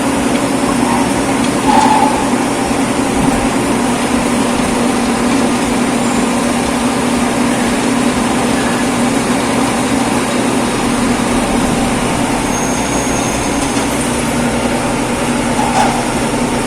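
A steady machine drone that holds an even pitch and level throughout.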